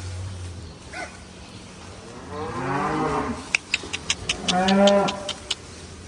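Cattle mooing: two long moos about two seconds apart, with a quick run of sharp clicks between and during the second moo.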